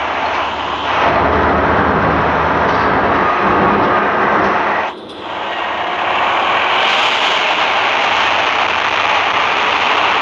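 Steam locomotive running close by: a loud continuous rushing noise with low rhythmic beats in the first few seconds, dropping briefly about five seconds in.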